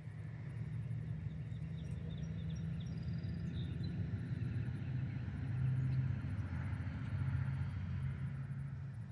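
A vehicle engine running steadily, a low rumble that swells a little about six seconds in, with faint bird chirps above it.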